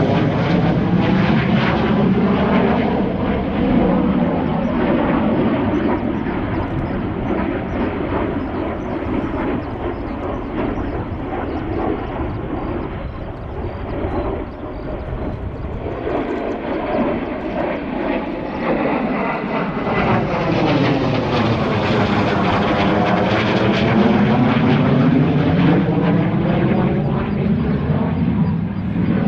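Fixed-wing aircraft flying past with its engine noise sweeping in pitch as it passes; loud at first, easing off in the middle, then building to a second loud pass a little over twenty seconds in.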